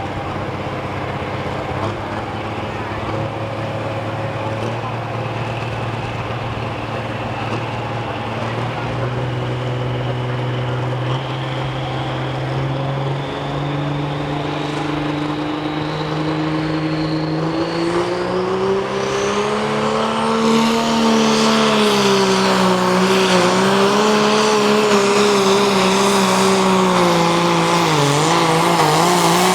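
Super stock pulling tractor's turbocharged diesel engine under load on a pull. Its pitch climbs steadily and grows louder for about twenty seconds, with a high whine rising alongside, then wavers up and down near the end as the engine is loaded.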